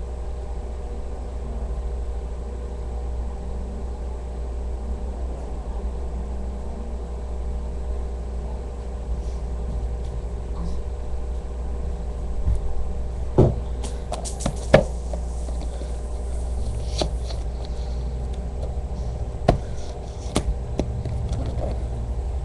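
Steady low background hum throughout. From a little past halfway, a scattering of sharp clicks and knocks with some rustling as the model's packaging is handled to get the tape off.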